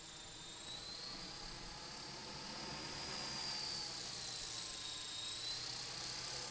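Walkera LM3 coaxial radio-controlled helicopter in flight, its small electric motors and rotors giving a high-pitched whine. The pitch rises over the first few seconds and dips about five seconds in.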